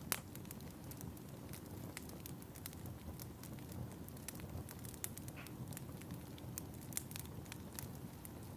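Wood fire burning in a fireplace: a steady low rumble of flames with irregular sharp crackles and pops, the loudest just after the start.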